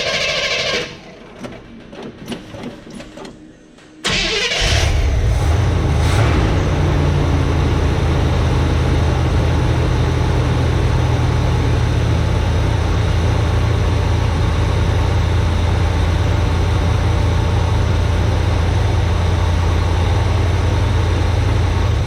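Starter motor whining as it cranks, stopping within the first second. After a few seconds with light clicks, the 1976 square-body pickup's engine fires about four seconds in and then runs at a steady, deep idle, turned over by its newly installed starter.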